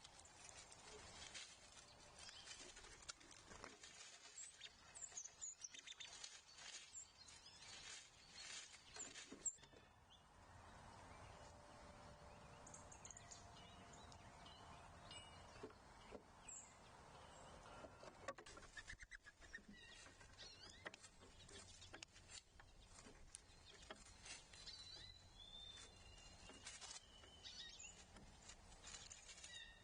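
Faint outdoor feeder ambience: scattered songbird chirps and tweets over many small taps and scratches. A faint steady hum rises for several seconds in the middle.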